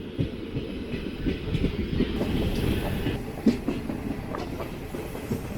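Diesel-electric multiple unit (DEMU) train running along the track, heard from on board: a steady low rumble with wheels clicking over rail joints, and a sharper knock about three and a half seconds in.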